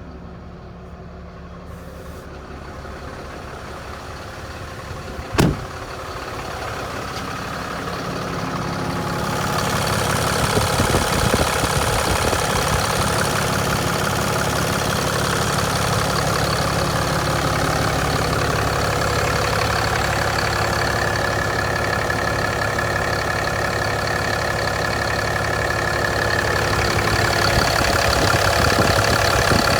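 2020 Ram 4500 truck's engine idling steadily, growing louder over the first ten seconds and then holding even. There is a single sharp knock about five seconds in.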